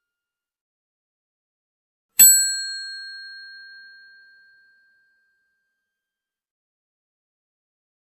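A single bright chime sound effect, like a struck bell, about two seconds in, ringing out and fading over a couple of seconds; the rest is near silence.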